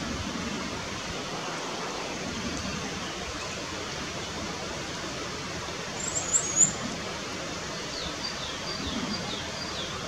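Bird calls over a steady outdoor hiss: a quick cluster of very high, sharp chirps a little past halfway, then a series of about six short down-slurred notes on nearly the same pitch near the end.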